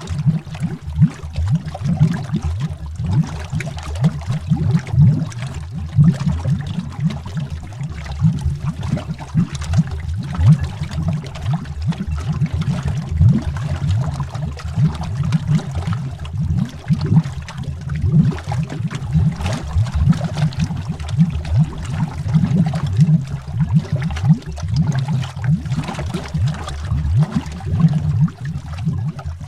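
Continuous underwater bubbling: a dense stream of low, deep bubbles rising and popping, heard as if from under the water, with fainter higher fizz.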